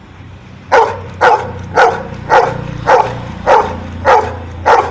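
A dog barking out a count on command, answering the number ten: a steady run of short barks, about two a second, beginning under a second in, eight of them here.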